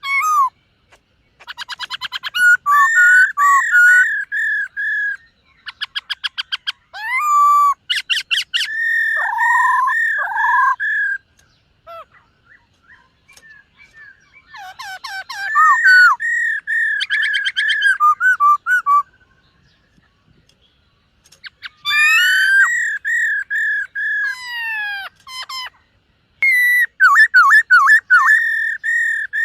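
Black-throated laughingthrush singing: loud whistled phrases mixed with fast runs of repeated notes and swooping glides, delivered in bursts of several seconds with short pauses between them.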